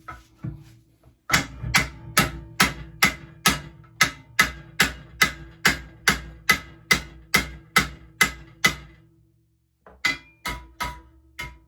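Hammer blows on heated steel to straighten a bent pit bike part: a steady run of about twenty ringing metal strikes, roughly three a second. After a short pause come four more blows near the end.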